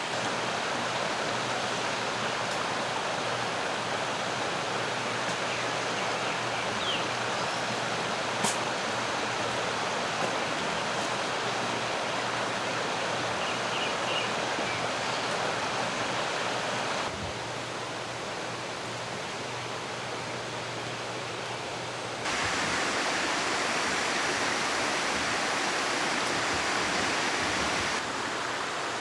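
Mountain stream water rushing steadily over rocks, its level stepping down and up abruptly a few times.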